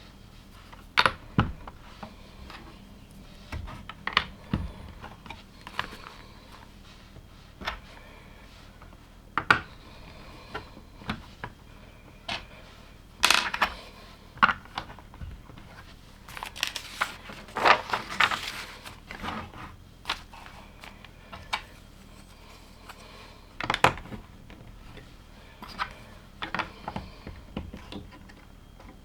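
LEGO plastic bricks being handled and pressed together: scattered sharp clicks and clatters, with a couple of longer stretches of rattling as loose pieces are sorted.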